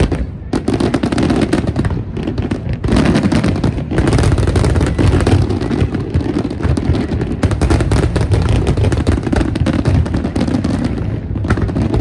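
Fireworks going off in a rapid, unbroken barrage of bangs and crackling.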